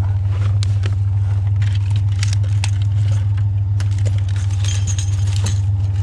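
A truck running with a steady low drone, with frequent light metallic jingling and rattling throughout.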